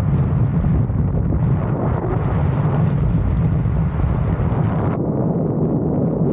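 Strong wind buffeting the camera's microphone: a loud, steady, deep rumble that loses some of its hiss about five seconds in.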